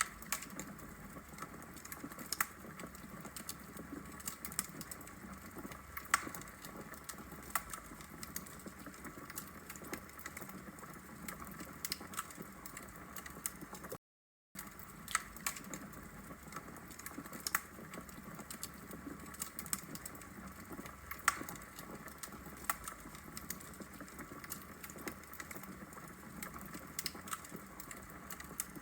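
Log fire burning in a brick fireplace: irregular sharp crackles and pops over a low steady hiss. The sound cuts out for about half a second halfway through.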